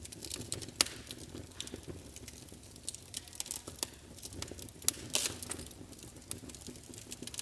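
Wood fire crackling in a fireplace: irregular sharp pops and snaps over a low, steady rumble of the flames. The sharpest pops come about a second in and near five seconds.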